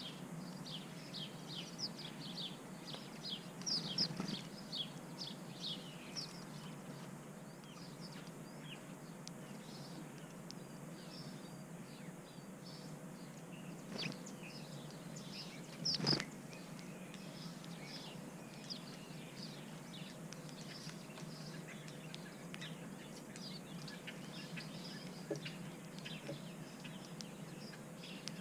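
Small backyard songbirds chirping with many short, high calls, busiest in the first few seconds and then scattered, over a steady low hum. There is one sharp knock about halfway through.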